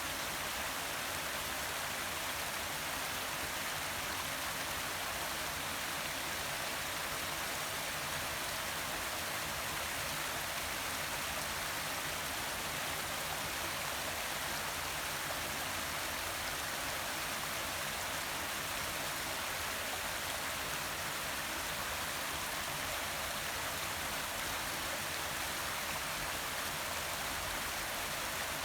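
Forest waterfall: a steady rush of falling and splashing water.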